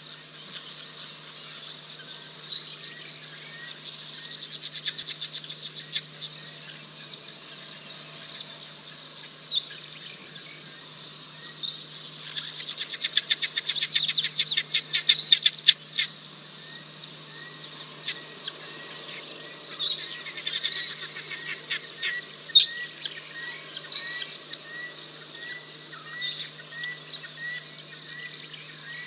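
Wild birds calling. There are bursts of rapid, high chirping trills, loudest about halfway, and in the second half a run of short repeated notes, one or two a second. A low steady hum runs underneath.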